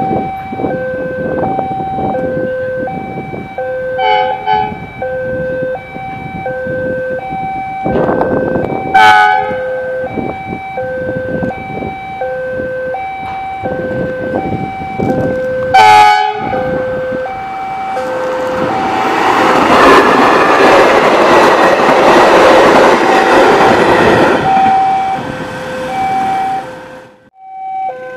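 A level-crossing warning alarm sounds in a steady two-tone pattern about once a second while a diesel-hauled passenger train approaches at speed, giving three short horn blasts, the last two loudest. The train then passes close by with a loud rush of wheels on the rails for several seconds before the sound cuts off.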